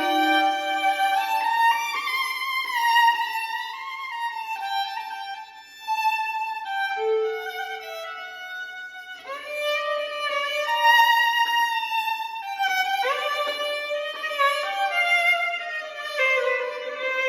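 Solo violin playing a slow, lyrical melody of held notes, with a short pause between phrases about five seconds in.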